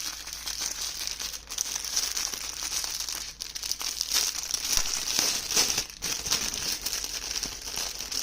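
Packaging crinkling and rustling continuously as it is handled and unwrapped, with many small crackles.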